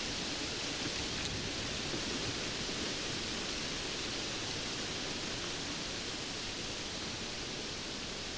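Steady rainfall: an even, unbroken hiss with a few faint drop ticks.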